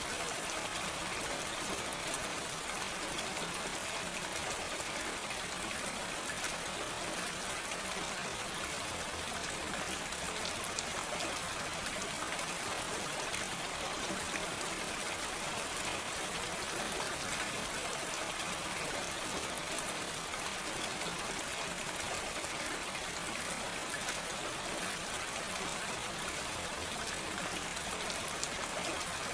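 Steady gentle rain: an even hiss of falling rain with fine pattering drops, no thunder.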